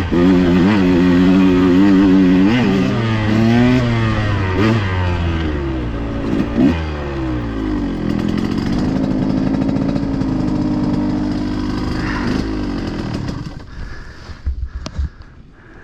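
A KTM 125XC two-stroke dirt bike engine revving up and down as it is ridden, its pitch rising and falling again and again. Near the end the engine note drops away, leaving a few scattered knocks.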